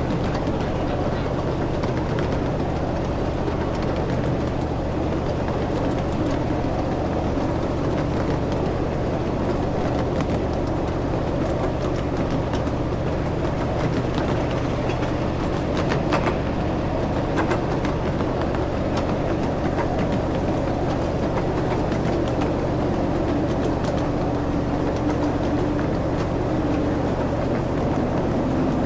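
Ride-on excursion train running steadily: a continuous low drone and rumble with light scattered clicks, and a short held tone in the latter part.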